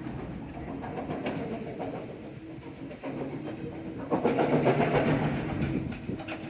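A heavy engine running with a steady hum, growing louder for a couple of seconds about four seconds in.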